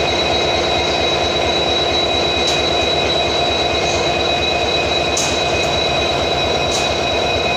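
Passenger train hauled by a WDP4D diesel locomotive running steadily: a continuous rumble of wheels on rail with a steady high whine over it, and a few faint ticks.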